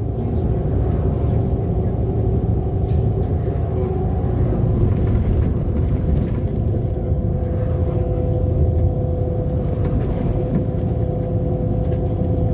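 City bus under way: a steady low rumble of engine and drivetrain with a faint whine that steps higher about halfway through.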